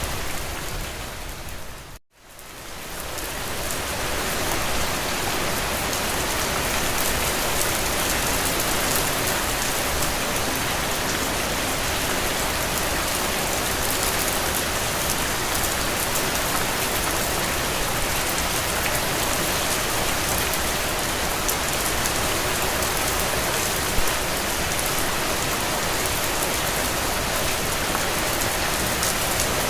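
Steady rain falling on a window, a dense even patter. About two seconds in it fades out to silence for an instant and then fades back up to full level.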